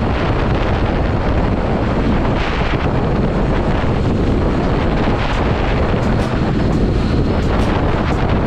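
Wind buffeting the microphone of a motorcycle rider at speed: a loud, steady rush of noise, with the motorcycle running underneath.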